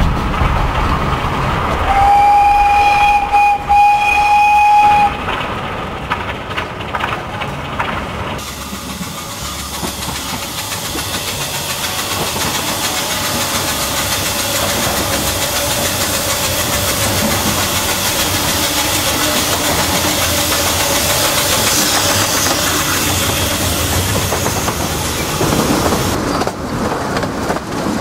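Narrow-gauge steam locomotive's whistle blown once, a single steady note held for about three seconds, followed by the train running along the line with a steady rushing noise.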